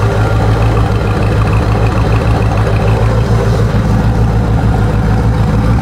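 Corvette's LT4 small-block V8 idling smoothly and steadily just after a cold start, at about 600 to 800 RPM.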